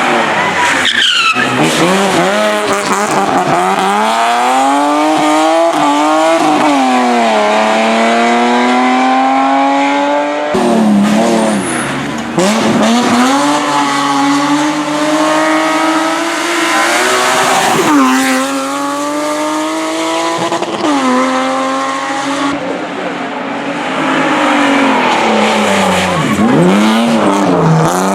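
Hillclimb race car engines accelerating hard, the pitch climbing through each gear and dropping at every shift, with dips and re-rises as they brake and pull out of corners. There is an abrupt switch to another car about ten seconds in.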